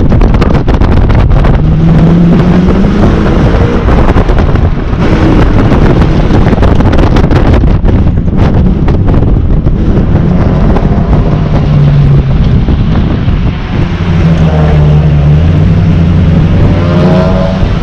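2001 Ford Mustang GT's 4.6-litre V8 revving up and down as the car accelerates and slows between cones, its pitch climbing near the end. Heavy wind buffeting on the outside-mounted camera's microphone runs underneath.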